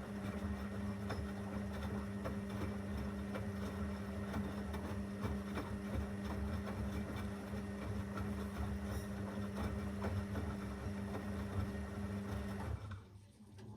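Zanussi FL984CN washing machine running mid-programme: a steady hum with a rough rattling underneath that stops abruptly about a second before the end.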